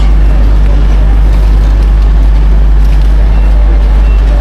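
Railway station ambience: a loud, steady low drone under a constant wash of noise.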